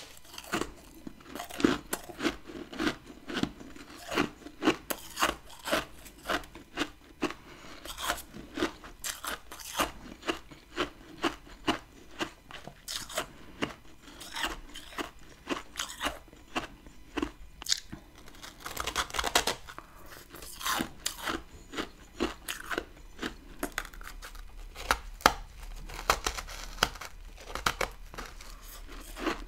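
A person chewing chunks of hard freezer frost, a steady run of crunches about two a second. A longer, louder crunch about two-thirds of the way through is a fresh bite.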